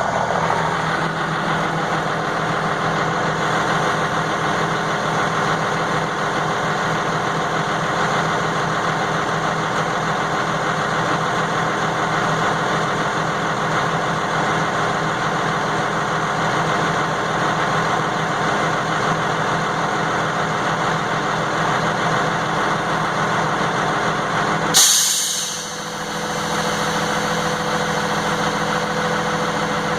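12-valve Cummins 5.9-litre inline-six diesel idling steadily. About 25 s in, a sudden sharp hiss of air lasts about a second, typical of the air dryer purging as the engine-driven air compressor unloads, and the engine's tone changes slightly after it.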